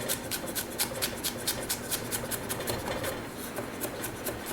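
Knife rapidly chopping a garlic clove on a cutting board: a steady run of quick taps, about five or six a second, thinning out near the end.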